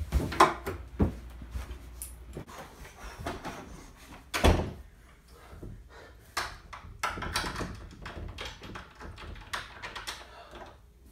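An interior door being shut and bumped: a series of knocks and thuds, the loudest about four and a half seconds in.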